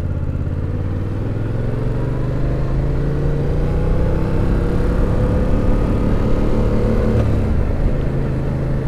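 Yamaha FZ-07 motorcycle's parallel-twin engine under way, its pitch climbing slowly as it gathers speed, then dropping suddenly about seven seconds in and running steady after.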